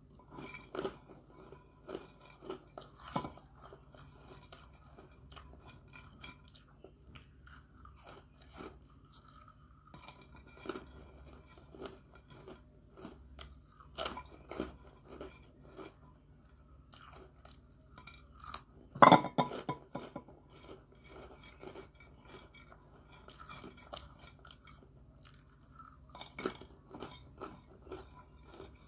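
Close-up chewing of crunchy puffed snacks, with sharp, irregular crunches all through and a loud flurry of crunches about two-thirds of the way in.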